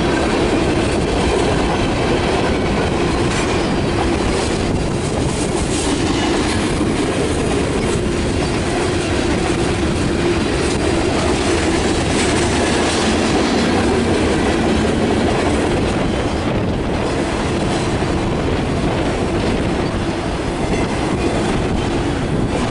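Freight train cars rolling steadily past, the wheels clattering on the rails.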